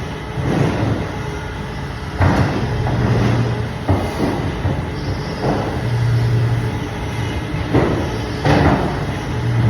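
Band saw cutting fish: a steady low motor hum with a noisy cutting sound rising and falling about every one to two seconds as the blade passes through the fish.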